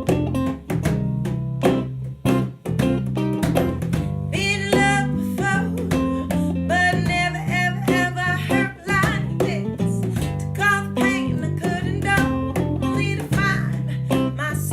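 Rock-and-soul band playing a song with guitars and bass and a steady beat; a lead vocal comes in about four seconds in.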